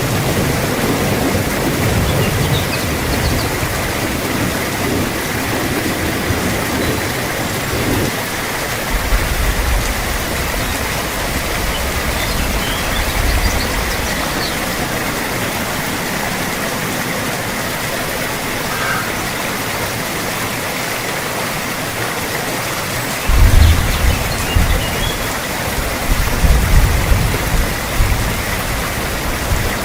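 Steady rain hissing, with rolls of low thunder rumbling under it, the loudest coming about three-quarters of the way through.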